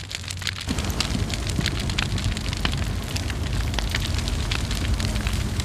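Open wood fire crackling, with many irregular sharp pops over a steady low rumble.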